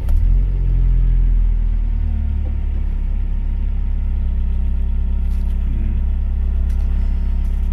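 Volvo 460 Turbo's turbocharged four-cylinder engine idling. Its revs are a little high and louder in the first second or two, then ease down to a steady idle.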